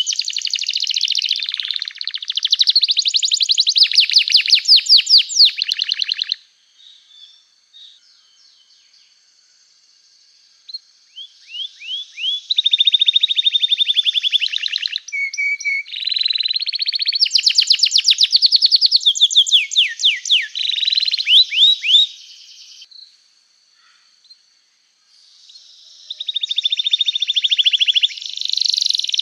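Domestic canary singing in long, fast trills of quickly repeated sweeping notes, breaking off twice for a few seconds between phrases.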